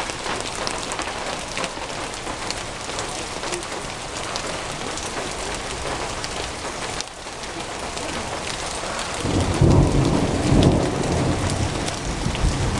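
Heavy rain pattering, with sharp ticks of drops hitting close by. About nine seconds in, a low rumble of thunder comes in and swells and fades in waves.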